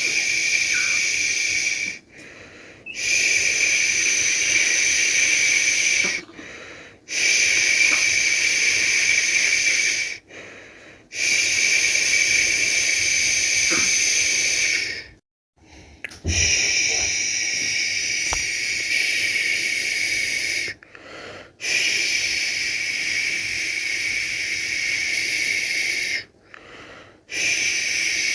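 A person shushing a baby to sleep: long, steady "shhh" sounds of three to five seconds each, broken by brief pauses for breath, repeated about seven times.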